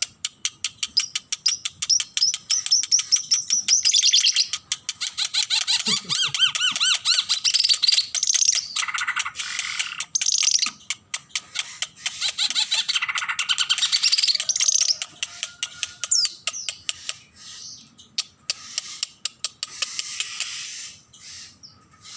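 An ara mata merah songbird singing vigorously and without let-up: a fast run of sharp clicking notes mixed with warbled, trilling phrases. The song eases off briefly near the end.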